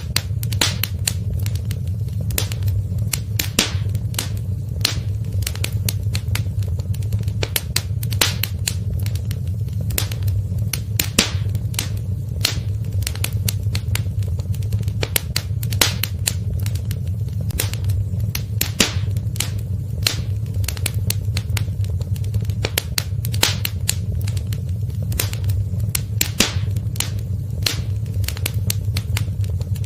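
Wood fire crackling in a fireplace: many sharp, irregular pops and snaps over a steady low rumble of the burning fire.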